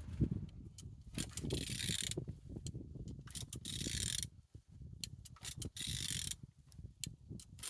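A used engine's crankshaft being turned over by hand in repeated strokes of about a second each, with sharp clicks between them; it turns freely, a sign the engine is not seized.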